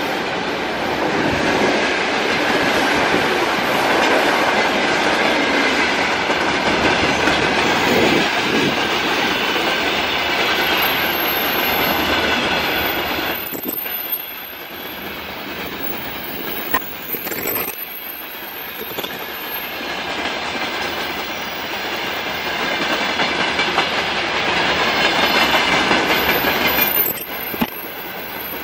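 Electric train running past on the rails: a steady rolling noise of wheels on track with a high whine over it, dipping briefly about halfway through and again near the end.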